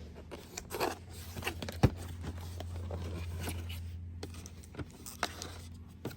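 Cardboard box and plastic packaging of a bird camera being handled and opened: scattered rustling and light clicks, with one sharp knock about two seconds in, over a steady low hum.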